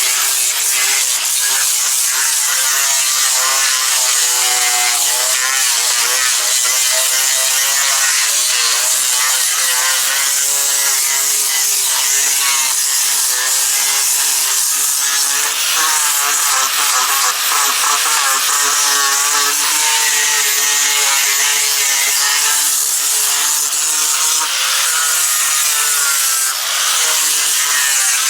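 Angle grinder with a 36-grit sanding disc running without a break as it sands painted hardwood deck boards back to bare wood. Its motor whine wavers up and down in pitch as the disc is worked over the timber.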